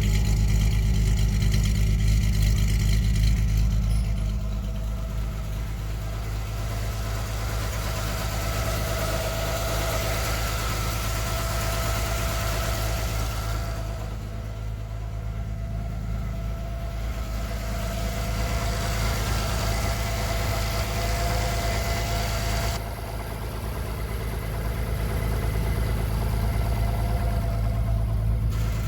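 A 1979 TVR Taimar's 3.0 Ford Essex V6 idling steadily after a cold start. The sound drops a little about four seconds in.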